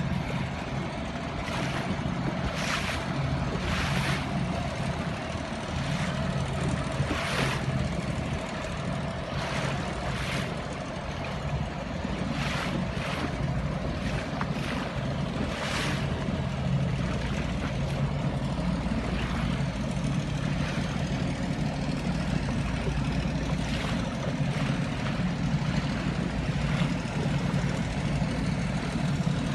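An engine running steadily with a low drone, while irregular short sharp knocks sound now and then, most of them in the first half.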